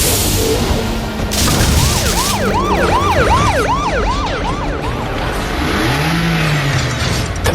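Police car siren in a fast yelp, quick rising-and-falling sweeps about three a second, over a low rumble, with a rush of noise at the start and another about a second and a half in.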